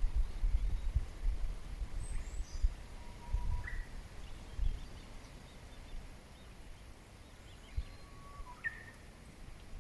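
Wild birds giving a few scattered short calls and chirps, including a high descending twitter about two seconds in and rising whistled notes around three and a half and nearly nine seconds in. Under them is an irregular low rumble, loudest in the first half.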